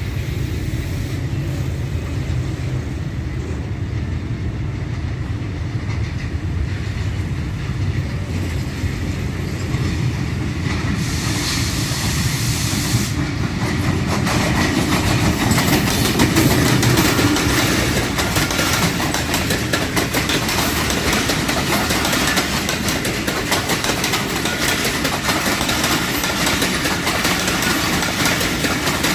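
A Pakistan Railways GEU-20 (GE U20C) diesel-electric locomotive runs in with a passenger train, and the coaches' wheels clatter over the rail joints. A brief hiss comes about eleven seconds in.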